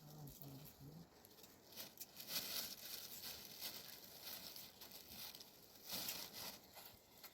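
Faint, irregular rustling and handling noises, loudest about two seconds in and again about six seconds in.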